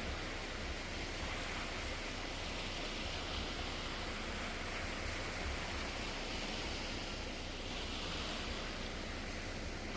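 Steady, even rushing noise of wind and water, with no distinct sounds standing out.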